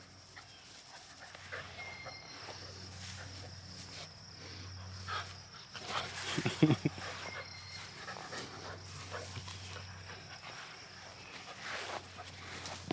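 Mini Australian Shepherd panting, with a brief cluster of louder, sharper sounds a little past halfway.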